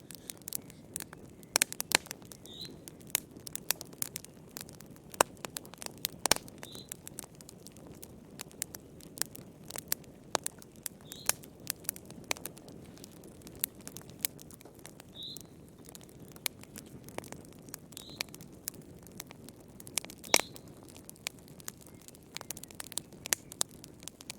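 Wood fire crackling in a fireplace: irregular sharp pops and snaps over a steady low hiss of burning. A short, high chirp comes every few seconds.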